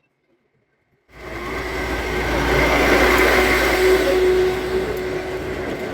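Heavy trailer truck passing close by on a highway: engine and tyre noise starts abruptly about a second in, swells to a loud rumble, then slowly eases off.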